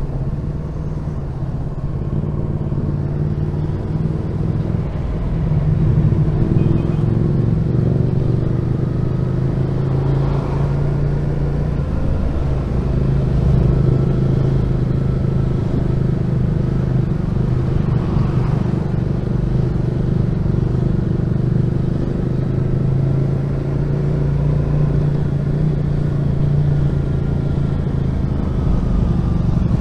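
Honda VFR1200F's V4 engine running steadily at low revs, its pitch rising and falling gently as the bike rides through traffic.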